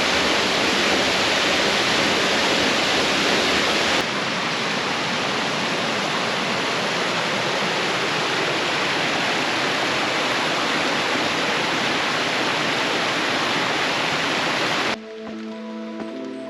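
Waterfall rushing steadily at close range, the water noise stepping slightly quieter at a cut about four seconds in. Near the end the water sound cuts off and soft background music begins.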